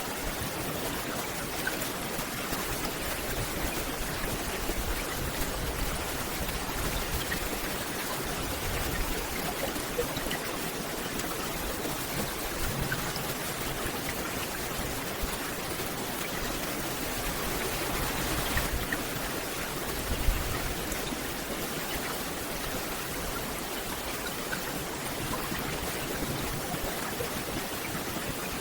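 Steady rain, a dense even hiss with scattered small drop ticks. One louder thump about two-thirds of the way through.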